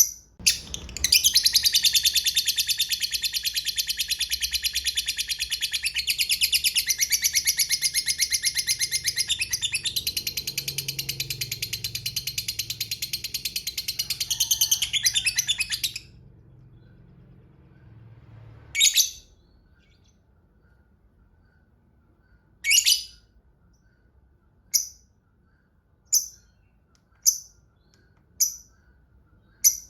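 Lovebird giving a long ngekek: a rapid, high, chattering trill that runs on unbroken for about fifteen seconds. Then come single sharp chirps, about one every one to two seconds.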